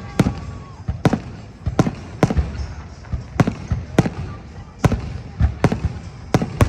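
Fireworks salute: a string of sharp bangs, about one or two a second at uneven intervals, over a low rumble.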